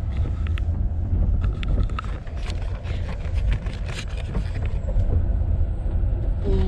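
Sleeper train running on the rails, heard from inside the compartment: a steady low rumble with many short clicks and rattles of the carriage, thickest in the middle.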